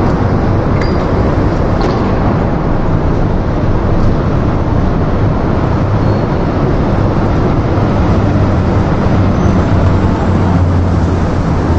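Loud steady rumbling noise with a low hum, like a running vehicle engine.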